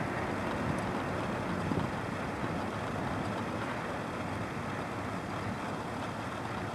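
Distant double-stack intermodal freight train rolling past, a steady rumble of its cars on the rails.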